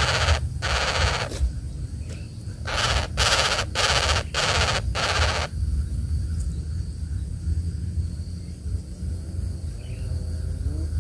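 A bird giving a run of harsh, rasping calls, each about half a second long with short breaks between them, which stop about five seconds in. Near the end a few low, wavering hooting notes come in.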